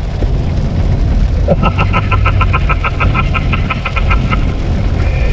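Steady low rumble of a truck cabin on the road in heavy rain. For about three seconds midway, a rapid high electronic beeping sounds at about seven pulses a second.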